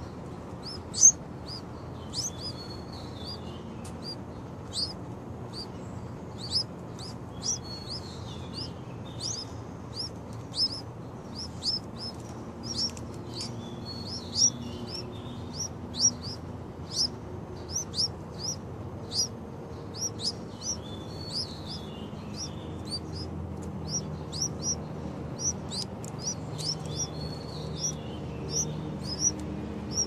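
Small birds chirping: short, high chirps repeated about once or twice a second, with a lower warbling phrase every few seconds.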